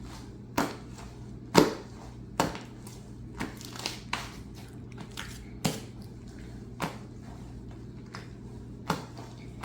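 Hands kneading cloud slime with dry snow powder worked into it, making irregular sharp sticky pops and clicks, roughly one a second, over a steady low hum.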